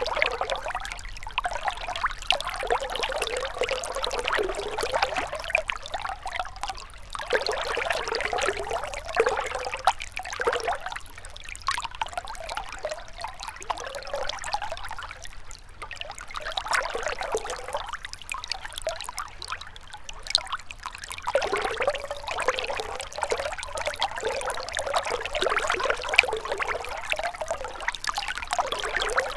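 A gentle river or stream trickling and splashing over stones, its burble swelling and easing every few seconds.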